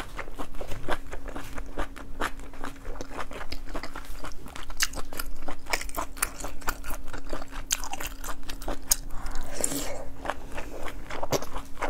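Close-miked chewing of seafood: a person biting and crunching, with many quick, sharp crackly clicks, over a faint steady hum.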